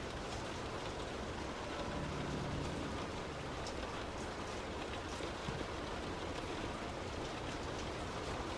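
Heavy rain hitting a moving car, with many small drop ticks over a steady low rumble from the car on the wet road.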